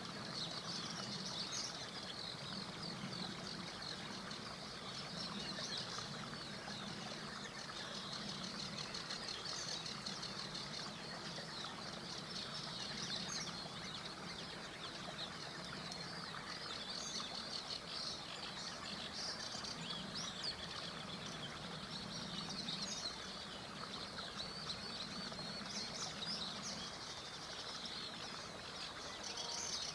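Many songbirds chirping and singing continuously in a dense chorus, over the steady rushing of a small river.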